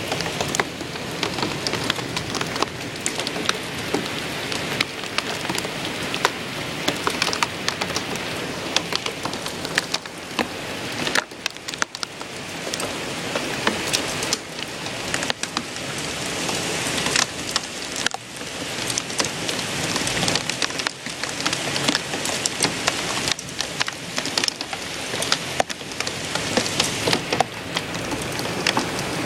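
Storm rain pouring down steadily, with many sharp individual drops striking hard surfaces close by.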